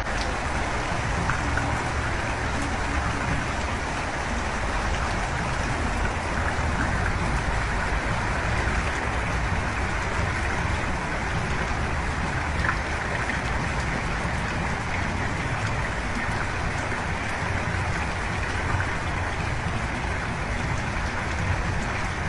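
Heavy rain falling steadily in a storm, with a constant low rumble underneath.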